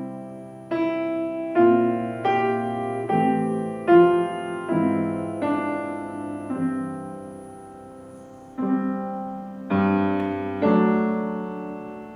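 Piano playing a slow run of full chords, each struck and left to ring and fade. The chords come roughly one a second, with one held longer a little past the middle.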